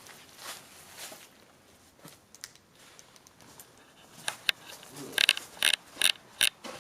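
Faint scuffling, then from about four seconds in a quick, irregular run of sharp crunches and clicks, as of debris crunching and being shifted.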